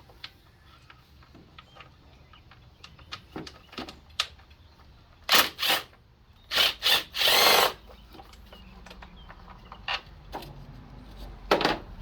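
Metal hand tools being handled: scattered light clicks and clinks, then a few short, loud bursts of metallic rattling about five to eight seconds in and once more near the end.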